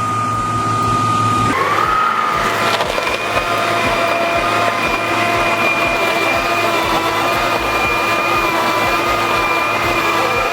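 A machine working through wood, with a steady whine over rough crunching noise; the sound changes abruptly about a second and a half in.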